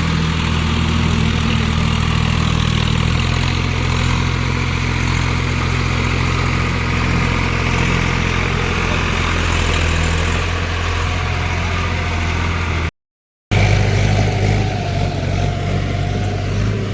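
Diesel tractor engine running steadily. About thirteen seconds in the sound drops out for a moment, then the engine returns with a slightly different note.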